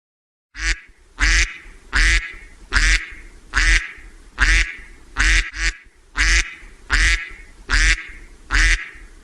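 A duck quacking over and over in a steady rhythm, about a dozen loud quacks, a little more than one a second.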